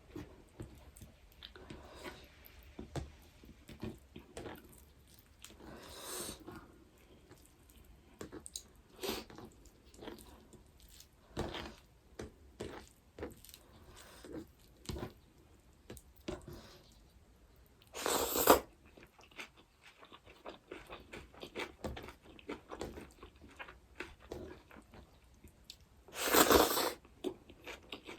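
A person chewing and biting food close to the microphone, with many small wet clicks and crunches. Two louder, longer noisy sounds come about two-thirds of the way in and again near the end.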